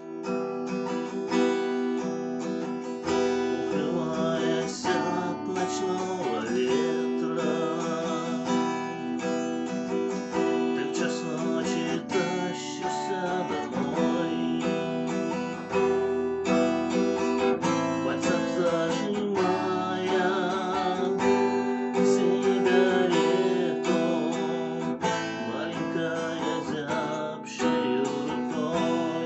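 Acoustic guitar music, strummed, playing steadily throughout.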